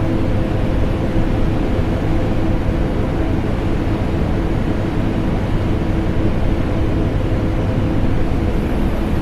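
Steady drone of a vacuum cleaner motor mixed with air-conditioner noise, an even rushing hiss with a constant low hum underneath and no change in pitch or level.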